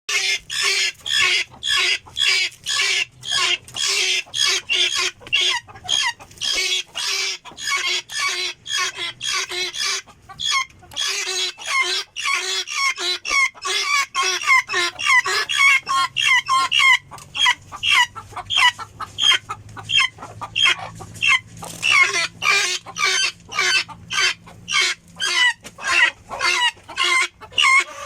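Helmeted guineafowl calling: a fast, steady series of harsh, rasping notes, about two to three a second, with a brief pause about ten seconds in.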